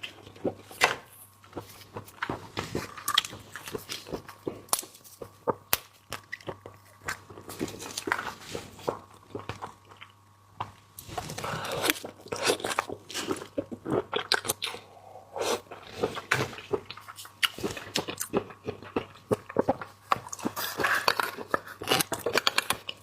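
Close-miked eating of seafood: irregular wet chewing and crunching clicks from a person's mouth, thicker in a few stretches.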